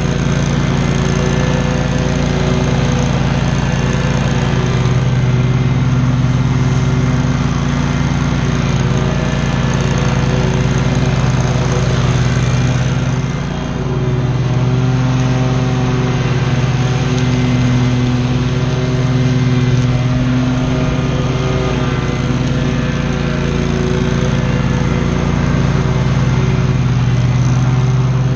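Commercial lawn mower engine running steadily at full throttle while cutting tall grass, with a brief drop in level about halfway through.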